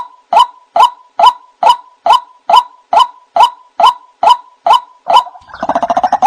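White-breasted waterhen (ruak-ruak) lure call: a regular series of short, loud 'kwak' notes, about two a second, each dipping slightly in pitch. About five and a half seconds in it breaks into a faster, harsher gurgling chorus of croaks. It is played back as a call to draw other waterhens in.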